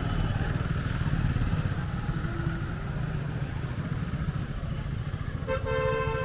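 Busy street traffic with motorcycle engines running close by. Near the end a vehicle horn sounds once for about a second.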